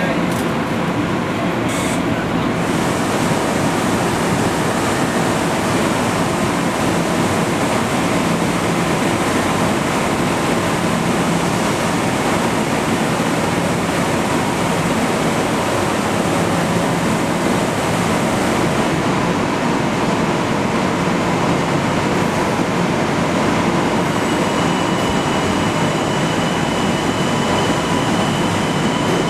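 Steady rushing hum of a Kawasaki M9 Long Island Rail Road electric train standing at an underground platform, with a steady low drone. A thin high whine joins in the last few seconds.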